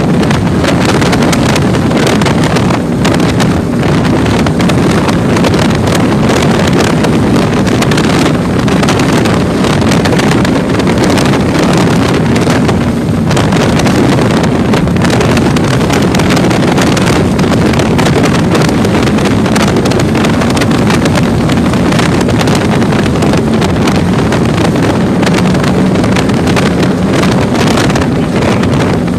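A 30-foot catamaran powerboat's engine runs steadily at speed through rough water, while heavy wind buffets the microphone.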